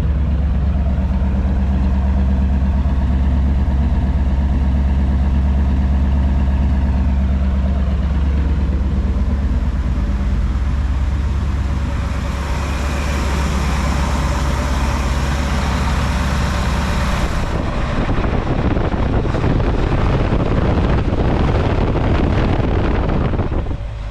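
Ford Galaxie 500's 390 V8 idling steadily after a cold start, purring. About halfway through a hiss joins it for some five seconds, then the sound turns rougher and less even.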